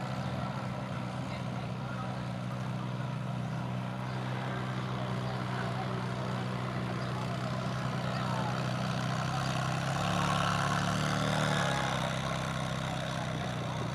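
Vehicle engine idling steadily, getting a little louder for a couple of seconds about ten seconds in, over a haze of background noise.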